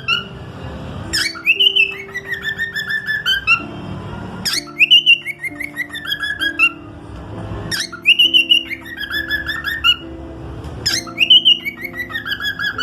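A cockatiel whistling the same short song phrase four times, about every three seconds: a rising note, then a quick run of falling notes. Sustained background music chords play underneath.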